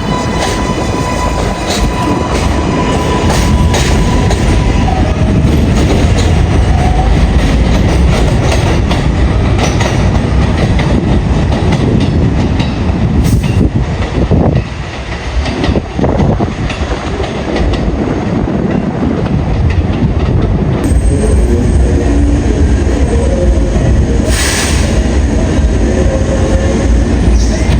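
New York subway R142A train running on the rails, its wheels clattering over rail joints with some wheel squeal, and an electric motor whine for the first few seconds.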